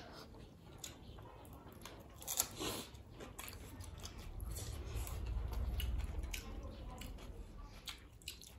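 Close-miked mukbang eating: chewing and biting mouth sounds with scattered clicks of spoons and forks against plates, the sharpest click about two and a half seconds in. A low rumble swells up in the middle and fades again.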